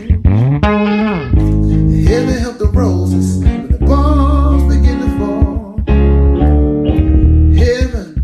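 Electric bass guitar playing held low notes with sliding pitch changes, under sustained keyboard chords.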